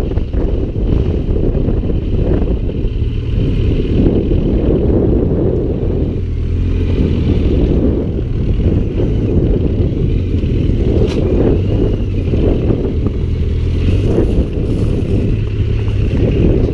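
Motorcycle riding steadily at road speed: a steady low engine drone under heavy wind buffeting on the microphone.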